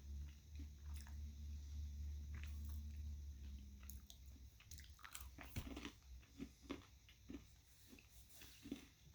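Someone quietly chewing and crunching a dark chocolate coconut cluster with crisped rice, a run of small irregular crunches from about five seconds in. A low steady hum sounds under the first four seconds.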